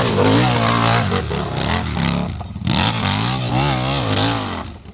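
Modified hill-climb motorcycle engine revving hard, the throttle worked on and off so the pitch wavers up and down. It drops away briefly a little after two seconds and again near the end.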